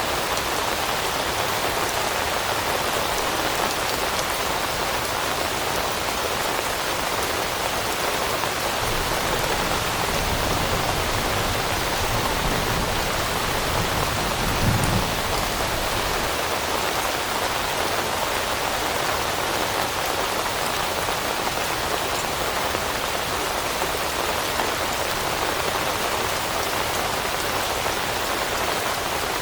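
Steady rain falling, an even hiss of drops. A low rumble swells and fades about ten to sixteen seconds in.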